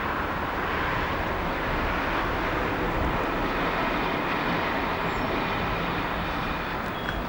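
Diesel train running steadily, a continuous even noise, with a brief click near the end.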